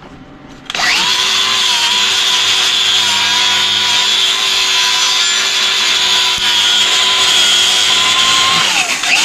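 Electric hand-held power tool, most likely an angle grinder, spinning up about a second in, running steadily, then winding down in pitch near the end as it is released.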